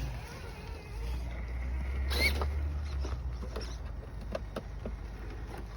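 Radio-controlled rock crawler working over rocks: a short rising whine of its electric motor about two seconds in, with scattered clicks and scrapes of tyres and chassis on stone, over a low rumble.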